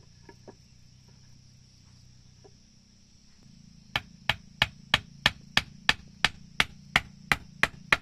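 Hammer driving a nail into timber in a quick, even run of about a dozen blows, roughly three a second, starting about halfway through. An insect chorus drones steadily underneath.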